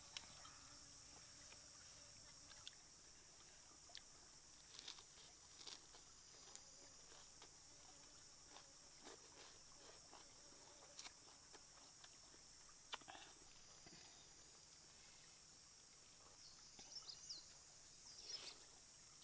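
Faint eating sounds, with scattered small clicks and smacks of chewing and biting into chicken, over a steady high insect drone.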